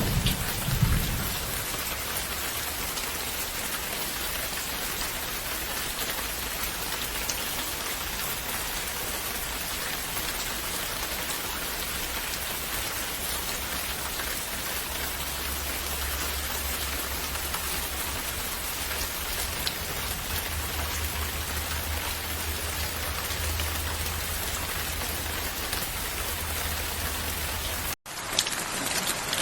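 Steady heavy rain falling, with the tail of a thunder rumble dying away in the first second and a faint low rumble later on. Near the end the sound drops out for a moment and comes back as a sharper, crackling patter.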